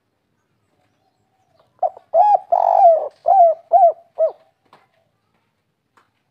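Spotted dove (tekukur) singing one cooing phrase about two seconds in: two short coos, a longer rolling coo, then three short clipped coos at the end, the 'kuk 3' song type.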